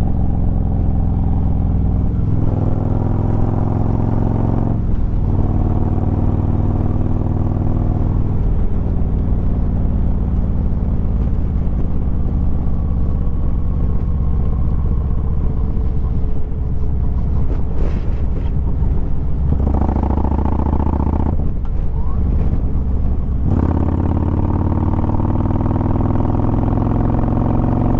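Harley-Davidson Road Glide V-twin engine under way, rising in pitch through the gears with short breaks at the shifts about two, five and eight seconds in, then running steadily before pulling up again near the end. It is in rain mode, which softens the throttle so the bike works harder to gain speed.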